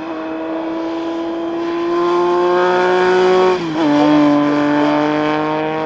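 Classic racing motorcycle engine accelerating hard and getting louder as it approaches. The pitch climbs steadily, drops sharply with an upshift about three and a half seconds in, then climbs again.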